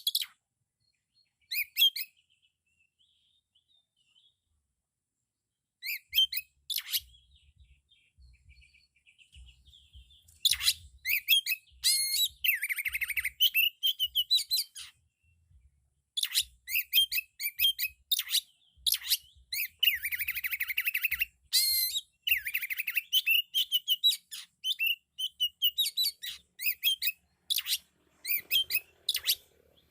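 Oriental magpie-robin (kacer) singing loud, varied song full of inserted imitated phrases: quick high whistled notes in bursts, broken by a few silent seconds early on, then a long, dense run with two harsh rattling passages.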